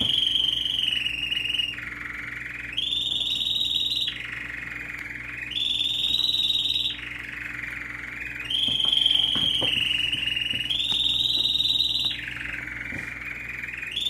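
Caged pet bird singing: long whistled notes that alternate between a higher and a lower pitch, each held for about one to two seconds, in a steady back-and-forth pattern.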